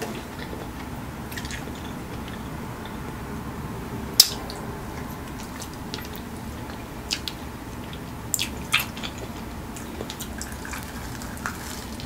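Mouth sounds of someone eating a Flamin' Hot Cheetos-coated chicken wing with cheese sauce: wet chewing and a few sharp smacks, the loudest about four seconds in, over steady background noise.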